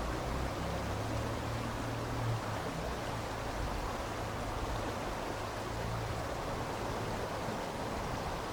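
Steady rush of flowing water, an even hiss with a low hum underneath.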